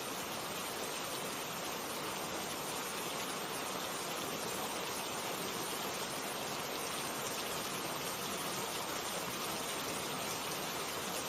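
Steady rainfall, an even hiss of rain with no thunder or distinct drops standing out.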